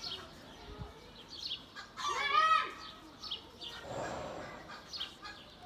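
Chickens clucking, with one loud squawk about two seconds in.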